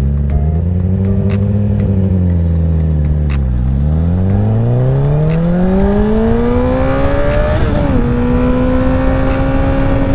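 Honda CBR1000RR sport bike's inline-four engine accelerating: the pitch rises and falls gently at first, then climbs steadily for about four seconds, drops sharply at an upshift just before eight seconds in, and then holds a steady note.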